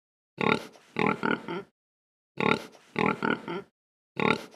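Pig grunting: a set of four grunts, one longer then three short, repeated identically about every two seconds, three times, with silence between.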